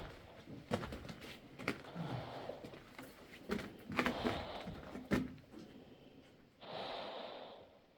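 A person breathing audibly, with a long breath near the end, among scattered sharp knocks and scuffs, in the closed-in echo of a mine passage.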